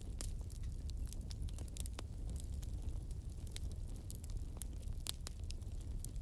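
Wood bonfire crackling, with frequent irregular sharp pops and snaps over a steady low rumble.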